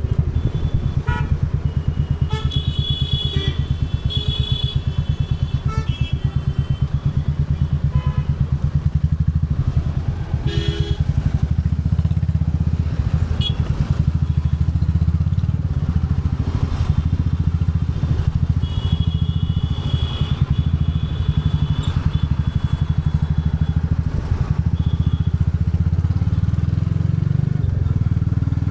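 Royal Enfield Bullet 350's single-cylinder engine and exhaust pulsing steadily under way. A few short high-pitched tones sound over it now and then.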